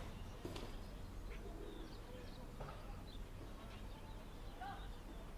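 Faint outdoor ambience of small birds chirping here and there over a steady low rumble, with a couple of sharp clicks near the start.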